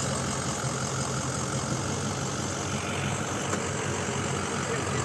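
A vehicle's engine idling steadily.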